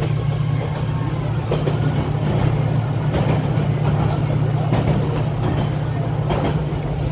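Passenger train running, heard from inside the carriage: a steady low rumble with a few scattered knocks.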